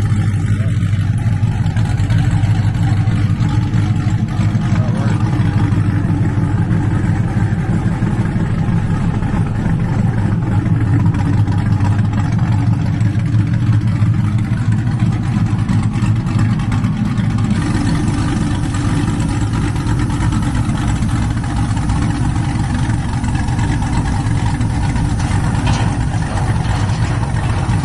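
Cadillac V-series engine running steadily through its freshly welded exhaust with an X-pipe, a low, even drone with no revving.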